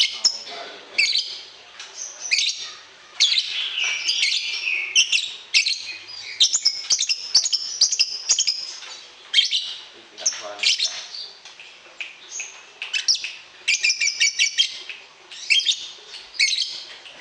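Songbird song: quick, varied phrases of high chirps and trills, one burst after another with short gaps.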